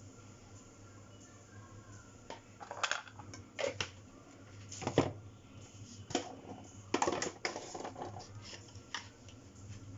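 Irregular sharp clicks and light knocks, a few at a time and unevenly spaced, over a low steady hum, starting about two and a half seconds in.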